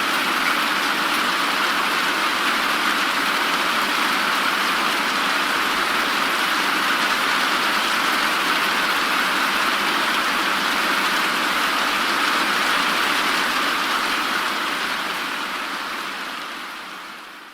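Steady, even rain noise that fades out over the last few seconds.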